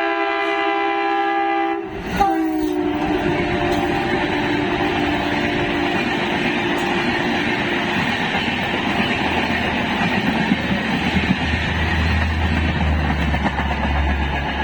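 Diesel locomotive's multi-tone horn sounding steadily, dropping in pitch as the train passes about two seconds in and fading out a few seconds later, followed by the loud rumble and clatter of the train running past on the rails.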